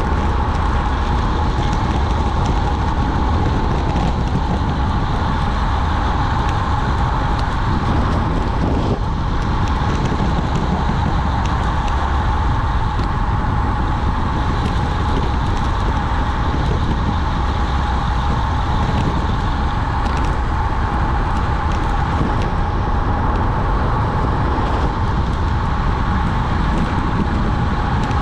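Steady rush of wind buffeting the microphone, with tyre noise, on a road bike descending at speed. A constant hum sits in the middle of the noise and nothing breaks the sound.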